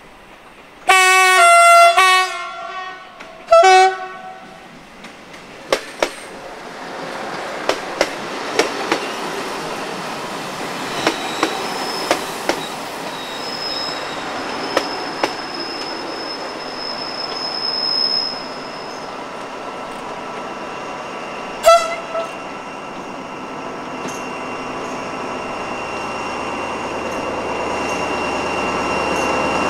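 Two loud train horn blasts, the first sounding two tones one after the other about a second in, the second shorter near four seconds, and a short toot about twenty-two seconds in. In between, wheels click over rail joints as the X 2200 diesel railcars pass, with a thin high wheel squeal. Near the end the BB 67400 diesel locomotive's engine grows steadily louder as it draws near.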